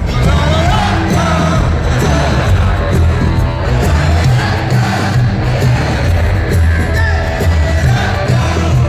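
Live rock band playing loudly: heavy, pulsing drums and bass under electric guitar, with some singing in the mix.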